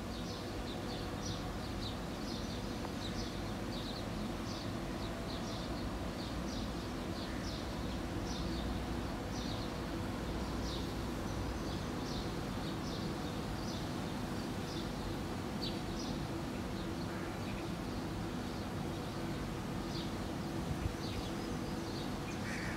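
Small birds chirping in short, high notes, about two a second, thinning out after about sixteen seconds, over a steady low hum.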